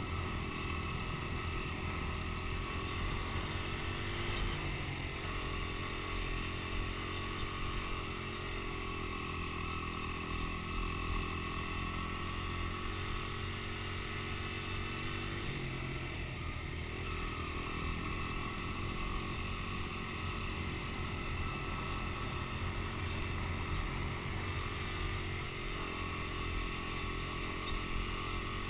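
Dirt bike engine running steadily, its pitch shifting briefly about four seconds in and again around fifteen seconds in.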